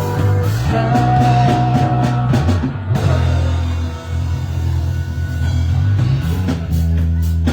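Live band playing rock music, with low held notes throughout and drum hits that thin out in the middle and return near the end.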